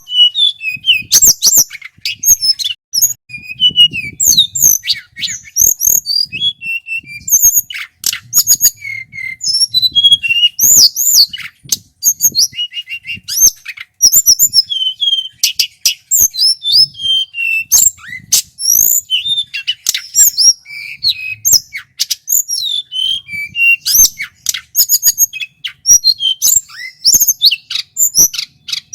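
Male hill blue flycatcher (tledekan gunung) singing continuously: rapid, varied high whistled phrases and slurs, with sharp clicks among them.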